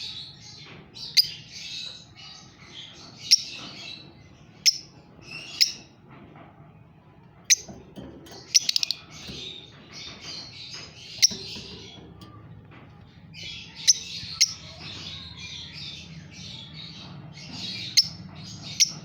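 Pet lovebirds chattering almost without a break, with sharp, loud, very short chirps every second or few, and a quick run of them about eight seconds in.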